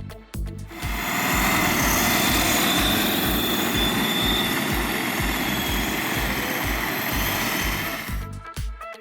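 Background music with a steady beat, overlaid from about a second in until near the end by a loud, steady rushing mechanical noise from a radio-controlled car running flat out.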